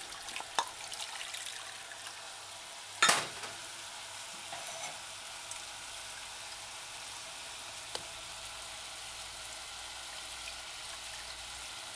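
Chicken pieces and onions sizzling steadily in oil in a stainless saucepan over medium-low heat. A sharp knock sounds about three seconds in, and a lighter tick near eight seconds.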